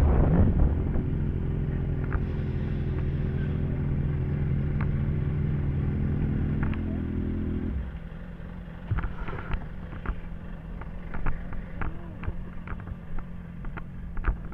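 Motorcycle engine idling steadily, then cutting off suddenly about eight seconds in. Scattered light clicks and knocks follow.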